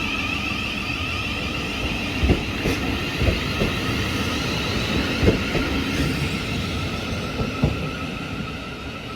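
Class 700 electric multiple unit moving through the station, with a steady electric whine from its traction equipment. Several short knocks, most likely its wheels running over rail joints, come a few at a time, and the sound eases slightly near the end.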